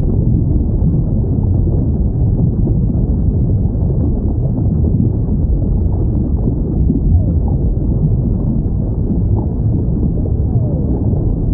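Underwater recording of whales: a steady low ocean rumble with faint whale calls, two of them sliding down in pitch, about halfway through and near the end.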